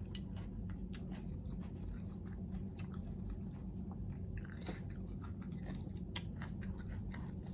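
A person chewing food with many small, irregular crunches and wet clicks.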